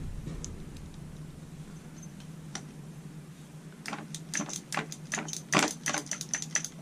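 Metal hand tools and small engine parts clinking and rattling in a quick irregular run over the last few seconds, with a few scattered clicks before and a steady low hum underneath.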